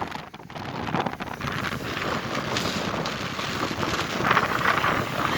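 Blizzard wind blowing hard against the microphone, rising and falling in gusts.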